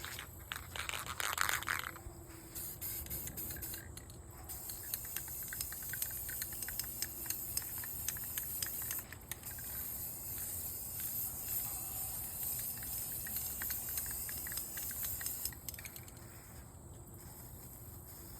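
Aerosol spray paint can spraying: a steady hiss starts about four seconds in, breaks briefly around nine seconds, and stops a few seconds before the end. Clicks and a short louder noise come before the spraying starts.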